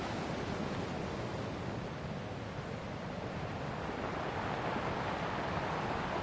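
Ocean waves washing on a shore: a continuous rush of surf that eases a little a few seconds in and swells again near the end.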